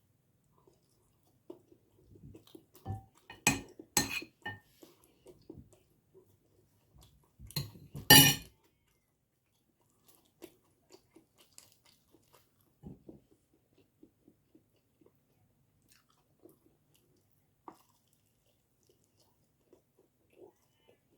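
Close-up chewing and crunching of food, with sharp clicky crunches or clatters bunched from about 2 to 5 s. The loudest comes at about 8 s, then softer, scattered chewing sounds.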